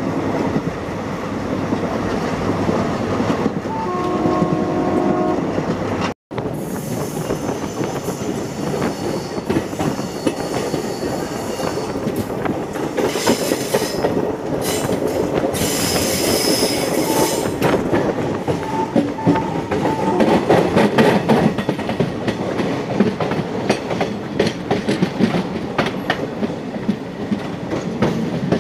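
Express train running behind a diesel locomotive, heard from a coach: a steady rumble with wheels clacking over rail joints. A short horn sounds about four seconds in. High metallic wheel squeal comes twice through the middle stretch.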